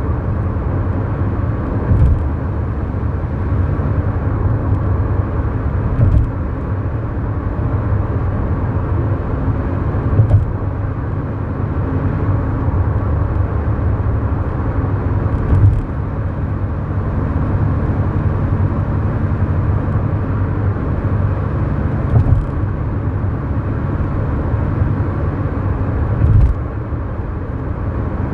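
Inside the cabin of a 2011 Kia New Morning cruising on an expressway: its 999 cc four-cylinder engine runs steadily under a low hum of road and tyre noise. A short thump comes every four to six seconds.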